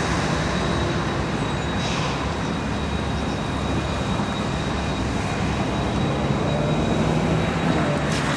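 Diesel freight locomotives running steadily in a rail yard: a continuous engine rumble, with a thin, steady high-pitched tone above it.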